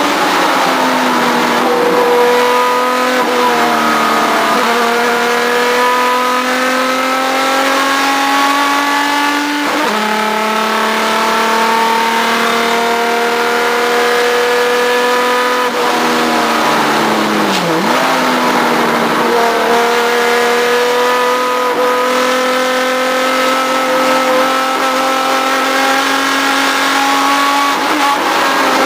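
Race car engine heard from on board, pulling hard through the gears: its note climbs steadily in each gear and drops at every shift, with one long pull lasting several seconds in the middle and a deeper dip, as for braking and a downshift, past the middle.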